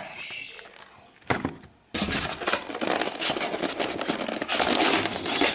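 Packaging handled: the RC transmitter is worked out of its styrofoam insert, foam scraping and rubbing in a dense rasping noise from about two seconds in, after a single sharp click.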